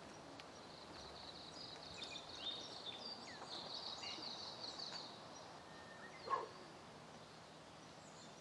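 Faint forest ambience of birds chirping and trilling, with a short louder sound about six seconds in.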